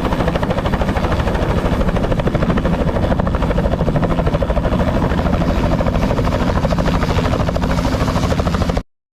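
Helicopter rotor and engine running steadily, with a fast, even pulsing from the blades; the sound cuts off suddenly near the end.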